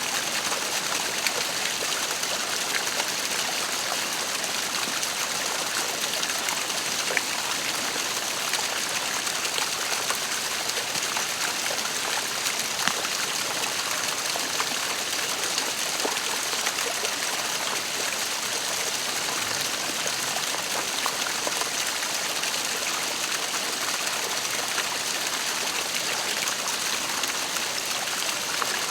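Waterfall: water falling and splashing in a steady, even rush, with small splashes standing out now and then.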